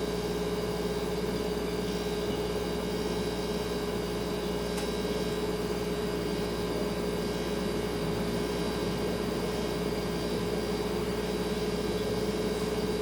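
Refrigerator running with a steady hum, a constant tone over a low even hiss. A faint tick about five seconds in.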